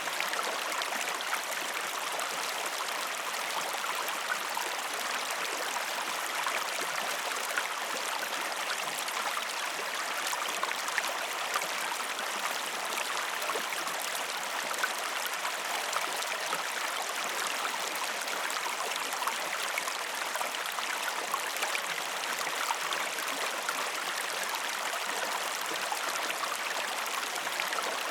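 Stream water flowing steadily: an even rush with small splashes and droplet ticks scattered throughout.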